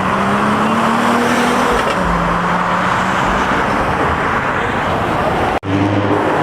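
Car engines running amid a steady rush of noise, one engine note holding and climbing slightly. Near the end the sound breaks off abruptly and a deeper engine note starts.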